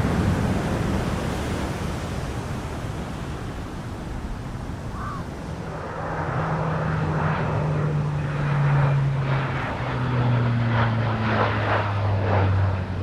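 Aircraft engine noise: a loud rush fades over the first few seconds, then a low engine drone comes in about halfway through and slowly drops in pitch as the aircraft passes.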